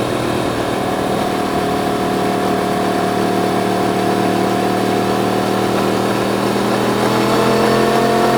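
Yamaha MT-10's crossplane inline-four engine running at steady, low revs, its note edging up slightly near the end.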